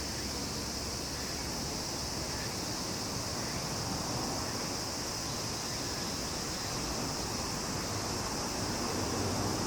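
Chorus of summer insects, cicadas or crickets, giving a steady, unbroken high-pitched sizzle, with a faint low rumble beneath.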